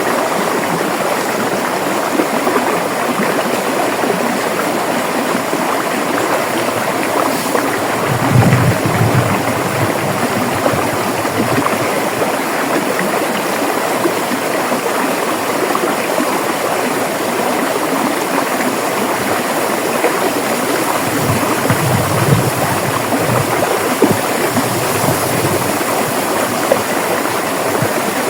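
River water rushing steadily over rocks, an even, unbroken flow, with two brief deeper low swells, about a third of the way in and again near three quarters.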